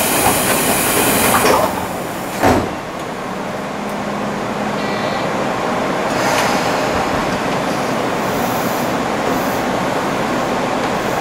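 Tobu Railway electric commuter train standing at a platform, heard from the driver's cab: a loud hiss of air for the first second and a half, then the sliding doors thudding shut once about two and a half seconds in, followed by a steady hum with a brief electronic tone near the middle.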